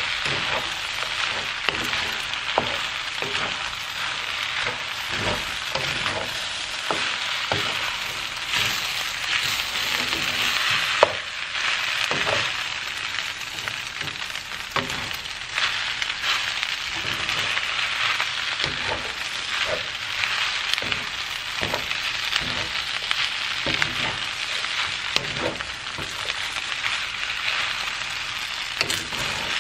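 Fried rice with chicken sizzling in a wok, with a steady hiss. A wooden spatula scrapes and knocks against the pan again and again as the rice is stirred and tossed, with one sharper knock about eleven seconds in.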